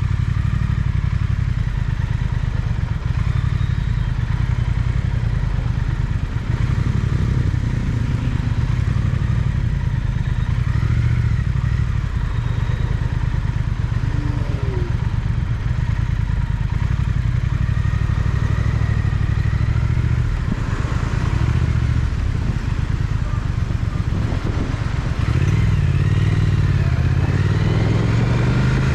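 Triumph Speed Twin's parallel-twin engine running steadily under way. Near the end it pulls harder, its pitch rising and falling as it accelerates.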